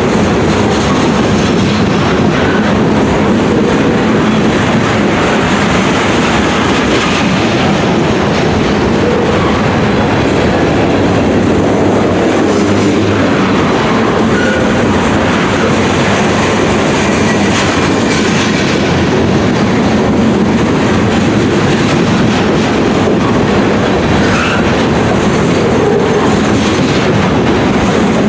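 Freight cars of a CSX manifest freight train rolling past at close range, with a steady, loud rumble of steel wheels on the rails.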